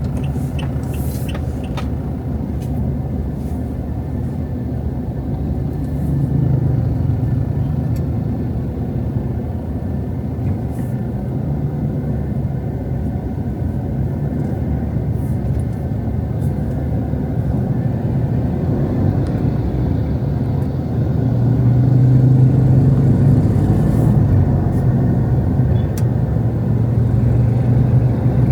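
Road traffic: a steady low rumble of passing cars, swelling louder twice as vehicles go by.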